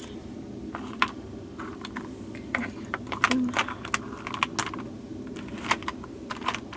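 Irregular light clicks and taps of small crafting supplies being handled on a tabletop, thickest in the middle, over a steady low hum.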